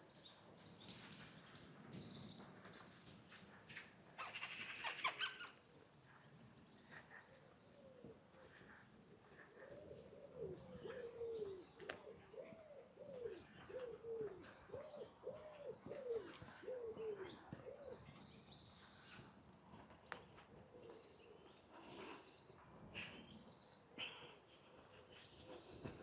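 Birdsong: small birds chirping at a high pitch throughout, and from about eight seconds in a pigeon cooing, a run of low rising-and-falling coos lasting about ten seconds. A brief rustle about four seconds in is the loudest moment.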